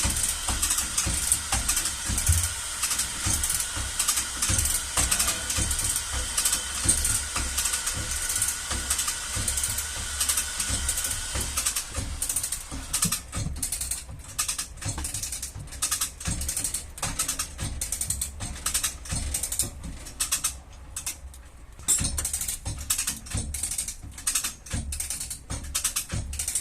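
Auto-body tool noise: a steady hiss for roughly the first twelve seconds, then rapid metallic clicking and tapping like a ratchet or light hammer taps.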